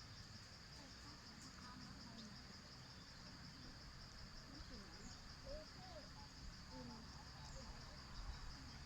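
A steady, high-pitched chorus of crickets trilling without a break, with faint scattered short gliding sounds lower down.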